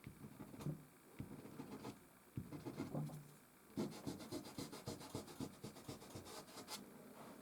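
Soft pastel stick scratching and rubbing on canvas in short strokes: a few scattered strokes at first, then a quick run of about five strokes a second from a little past the middle until near the end.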